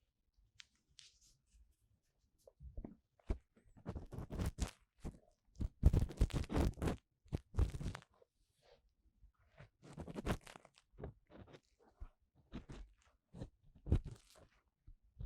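Ear-cleaning tool scratching and rubbing in the ear of a 3Dio binaural microphone: irregular bursts of crunchy scraping, after about two quiet seconds at the start.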